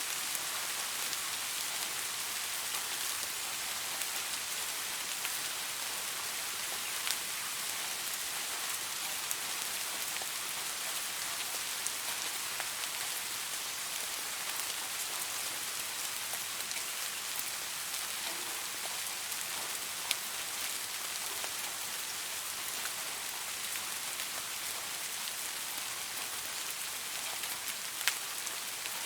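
Steady rain falling on leaves: an even hiss of many drops, with a few louder individual drop hits.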